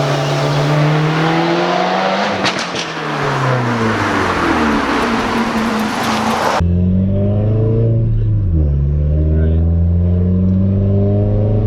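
Nissan 240SX's engine through an ETS Extreme catback exhaust, accelerating through the gears. The note climbs, then drops at a gear change about two seconds in over a loud rushing hiss. The sound cuts abruptly to a clearer recording near the middle, where the revs drop at another shift and climb again.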